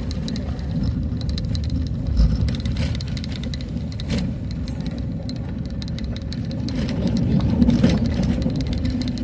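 A motor vehicle driving along a road: a steady low rumble with scattered knocks and rattles.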